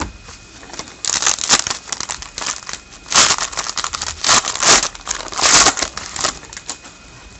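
Foil trading-card pack wrapper crinkling and being torn open in a series of rustling bursts, the loudest near the middle.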